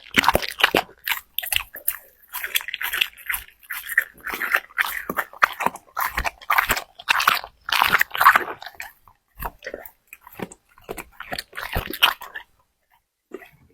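A pet chewing and crunching in irregular bouts of bites, pausing briefly near the end.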